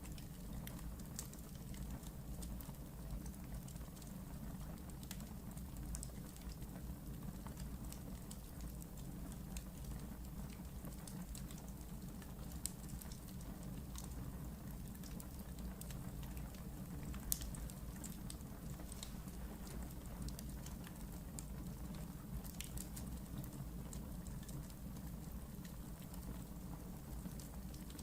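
Wood fire burning in a fireplace, crackling with scattered small pops and ticks over a low steady rumble of flame. One sharper, louder pop comes a little past halfway.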